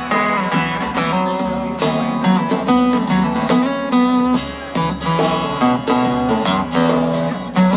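Live country band playing an instrumental break, guitars strummed and picked over a steady drum beat.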